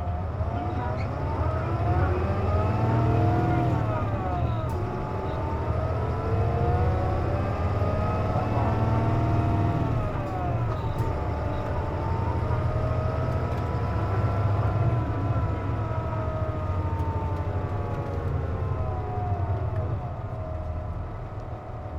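Inside a Nissan Diesel JP midibus under way: a steady low diesel rumble under a whine of several tones that rises as the bus speeds up and drops back, about four times. The uploader counts this bus as a 'strange-noise' bus, its sound changed with the air conditioning running.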